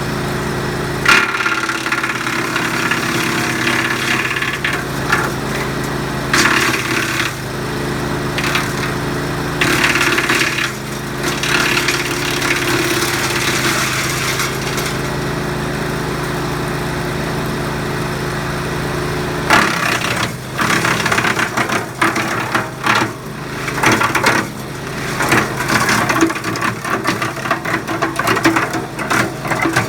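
Small gasoline engine of a 4-inch gravity-fed wood chipper running steadily while branches are chipped: bursts of cracking and rattling a few times in the first half, then almost without pause over the last ten seconds.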